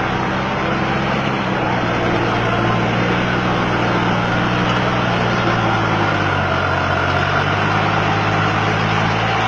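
Tractor diesel engine running steadily under way, its pitch dipping slightly about six seconds in.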